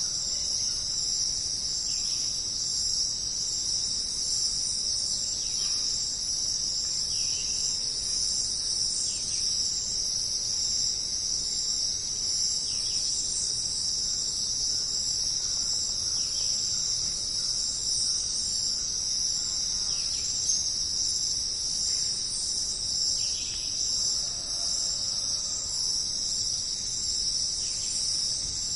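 A dense chorus of crickets trilling steadily and high-pitched, with faint short falling calls repeating every second or two beneath it.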